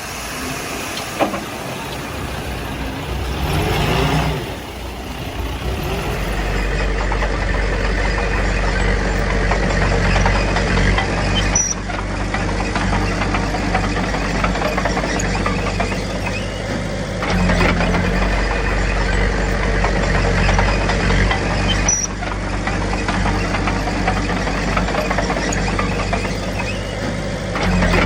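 Heavy diesel earthmoving machinery running: a steady low engine drone that settles in after a few seconds of more varied noise. It rises and falls a little in level several times.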